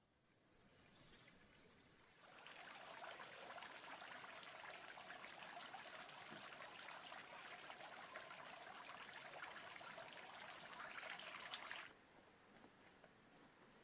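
Steady rush of water, an even hiss that comes in about two seconds in and cuts off abruptly near the end.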